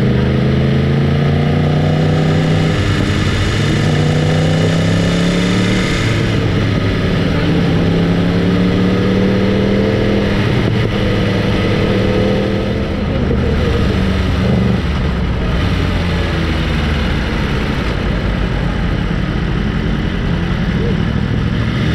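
Sport motorcycle engine under way, its pitch rising and dropping back several times as it pulls through the gears, then running steadier over the last few seconds. A rushing hiss of wind over the microphone is heard during the first six seconds or so.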